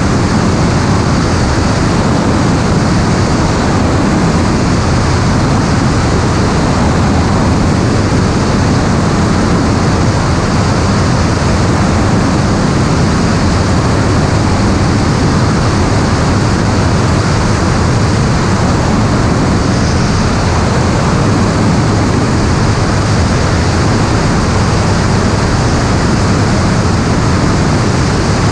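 Steady, loud rush of airflow and engine noise from an aircraft in flight, an even roar with no change.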